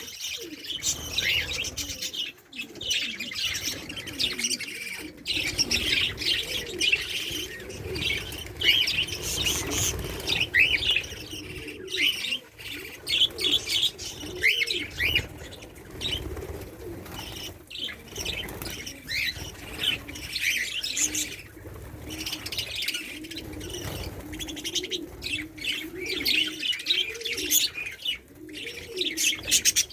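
A flock of caged lovebirds chirping continuously, many short high chirps overlapping, with a lower wavering warble running beneath them.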